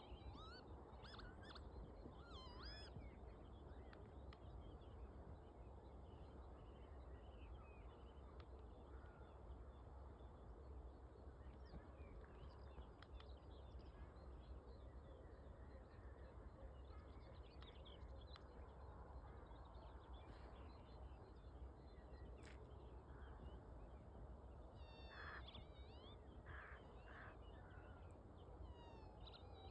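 Faint birds singing and calling over a low, steady rumble; the calls are busiest in the first few seconds and again near the end.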